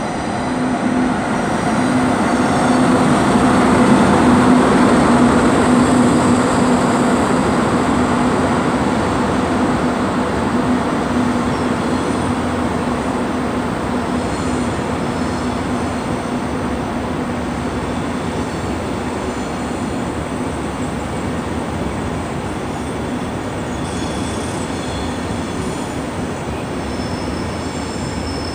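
DB class 101 electric locomotive hauling a train of SBB coaches rolling past along the platform. A steady hum is loudest about four seconds in as the locomotive goes by and fades as the coaches rumble past, with a few faint high wheel squeals near the end.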